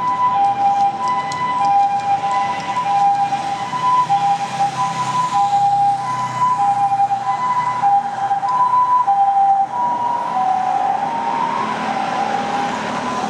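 Japanese ambulance two-tone siren alternating evenly between a higher and a lower note, the "pee-paw" hi-lo pattern, over traffic and engine noise. The pitch shifts up slightly about ten seconds in.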